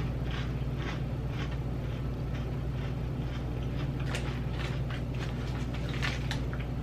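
Potato chips crunched and chewed close to the microphone: irregular crisp crunches a few times a second, louder after about four seconds in, over a steady low hum.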